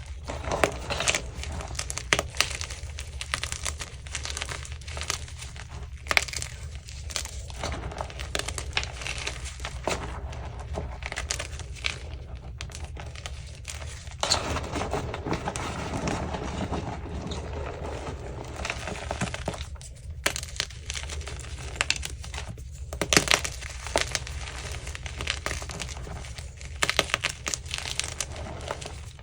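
Crunchy chunks of Easy Grip France gym chalk being crushed and crumbled: a dense, continuous run of dry crackles and crunches, with sharper snaps now and then.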